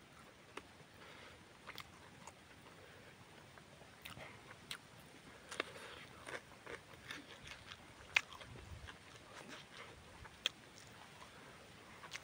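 Close-up mouth sounds of a person chewing a mouthful of rice and boiled chicken: irregular wet smacks and small clicks, with two sharper clicks in the second half.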